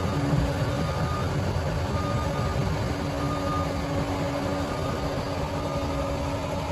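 Bulldozer diesel engine running steadily under work, with a faint whine that comes and goes.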